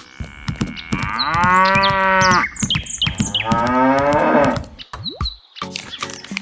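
A cow mooing twice: two long calls of about a second and more each, the second rising slightly in pitch.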